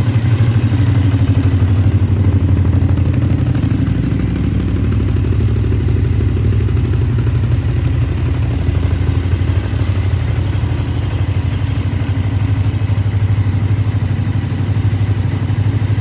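Suzuki TL1000S's 996 cc 90-degree V-twin engine idling steadily, with an even, lumpy low pulse.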